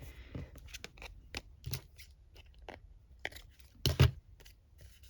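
Paper and craft tools handled on a work table: light paper rustling and scattered small clicks, with two louder knocks about four seconds in.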